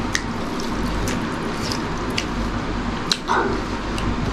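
Close-miked wet chewing and lip smacks of someone eating rice and side dishes, with about five sharp clicks spread through, over a steady background hum.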